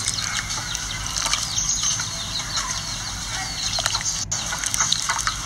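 Many quick, high bird chirps, with chickens clucking among them, over a steady low hum.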